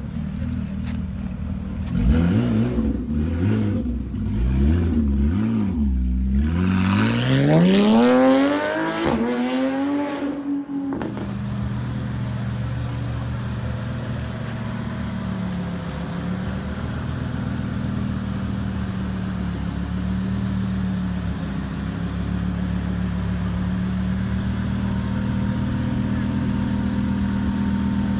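Performance car exhaust revved several times, then a hard acceleration with the engine note rising steadily until it cuts off suddenly about eleven seconds in. After that an engine idles steadily.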